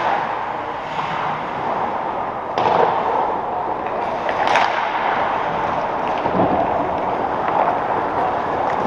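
Echoing sports-arena noise from a game in play, with two sharp knocks about two seconds apart, a third and halfway through.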